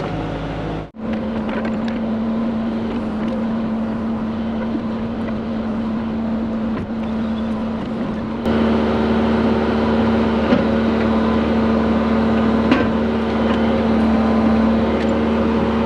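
Diesel engine of a heavy construction machine running steadily with a constant drone. It cuts off abruptly about a second in and comes back, then past the halfway point jumps louder with a fuller hum.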